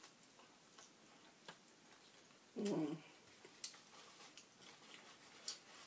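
Close-up eating sounds of a tuna sandwich on a bread roll being chewed, with small wet mouth clicks and smacks. About two and a half seconds in comes one short, louder low sound, like a brief hum or animal noise.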